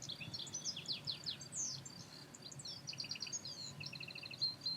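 Several birds chirping and singing faintly, with many quick overlapping calls and short repeated trills.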